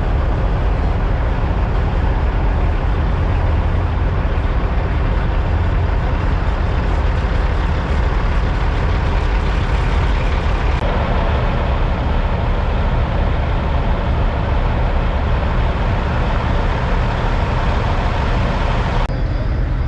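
Diesel semi-truck engines running steadily, a loud, deep rumble. The sound changes abruptly about eleven seconds in and again near the end.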